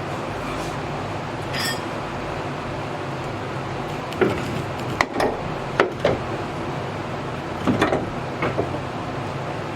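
Metal parts and hardware clinking and knocking as a front strut assembly is worked up into place: about half a dozen sharp knocks from about four seconds in, over a steady hiss of background noise.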